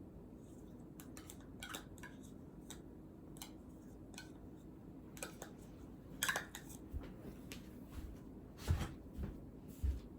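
Scattered small clicks and taps of objects being handled on a desk, with a few louder knocks about six, eight and a half and ten seconds in.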